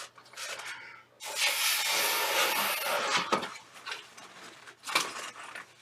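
Latex twisting balloons being handled, with short rubbing squeaks, and a steady hiss of rushing air for about two seconds starting about a second in.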